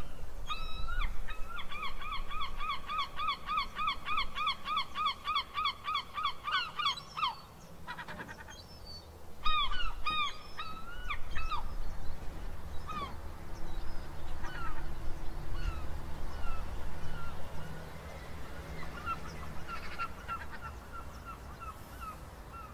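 Gulls calling: a fast run of repeated yelping calls, about four a second for some six seconds, then scattered single calls that grow fainter.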